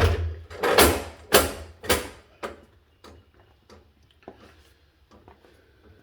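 A portable gas generator being shifted on a garage floor: about five heavy clunks and scrapes in quick succession, roughly one every half second, then a few faint clicks.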